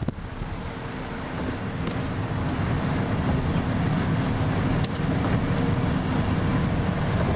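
Steady low rumble of a running vehicle with a faint steady hum, growing slightly louder.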